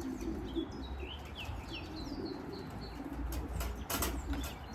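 Racing pigeons cooing low and steadily, with small birds chirping high above. A few sharp wing flaps come about three and a half to four seconds in.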